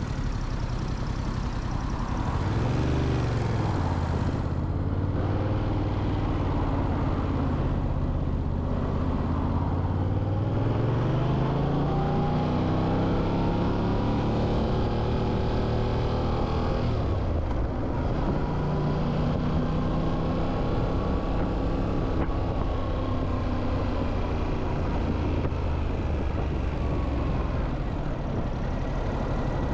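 Motorcycle engine running while riding, with wind and road noise: a brief rise and fall in pitch about three seconds in, a long climb in pitch as it accelerates from about ten seconds in, a sudden drop as the throttle closes around seventeen seconds, then steady running.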